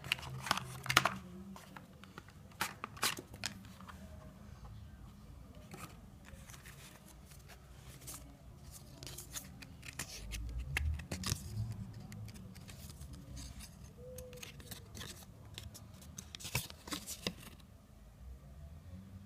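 Small packaging being handled and opened by hand: scattered sharp clicks, snips and scratchy rustles. They come thickest about a second in and again around sixteen to seventeen seconds in, over a low hum.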